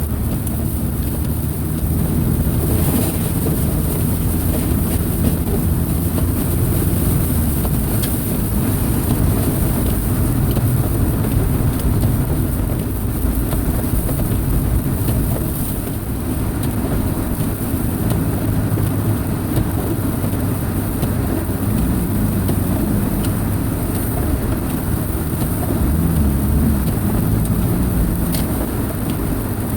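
2002 Subaru Impreza wagon with its EJ25 2.5-litre flat-four running while driving, a steady low engine note over continuous road noise. The engine's pitch shifts about a quarter of the way in and again later on.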